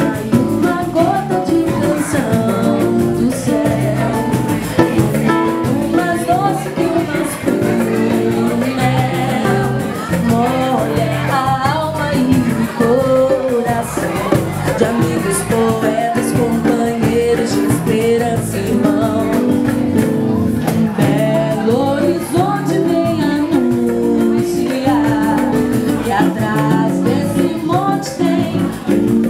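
A song: a lead singer's voice over a guitar-based band accompaniment, playing steadily.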